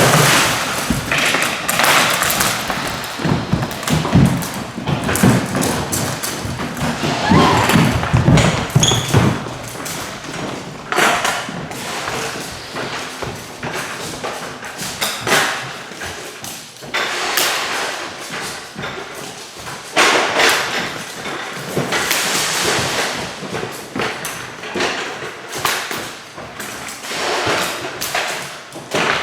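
A dense, irregular run of thumps, knocks and clatter, with a busier stretch in the first ten seconds and another from about twenty seconds in.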